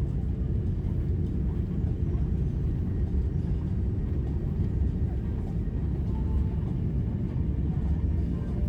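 Airliner cabin noise after landing: a steady low rumble of the engines at idle and the rolling aircraft, heard from inside the cabin while taxiing.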